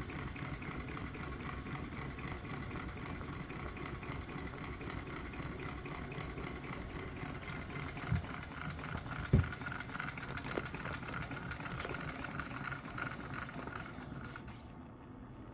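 A Stirling engine with a water-cooled piston running steadily with an even mechanical rhythm. There are two sharp knocks about eight and nine and a half seconds in, and the sound thins and drops a little near the end.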